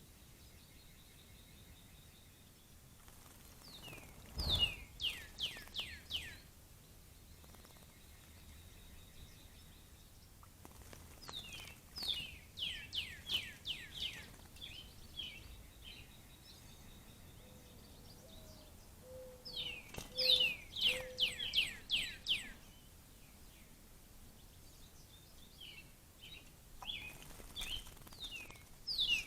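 Songbirds singing: loud phrases of quick down-slurred whistles, six or so to a phrase, repeated about every eight seconds, with fainter high steady whistles between them.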